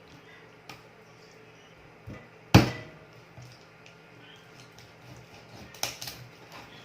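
Knife chopping raw chicken into pieces on a cutting board: a few irregular chops, the loudest about two and a half seconds in and two more close together near the end.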